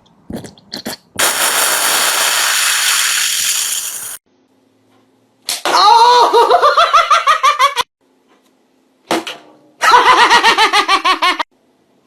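A loud hiss lasting about three seconds, followed by two bursts of rapid, pulsing laughter with abrupt cut-offs.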